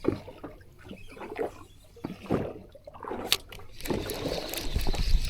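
Sea water sloshing and splashing around a small fishing boat, with scattered knocks and clicks, growing louder and fuller near the end.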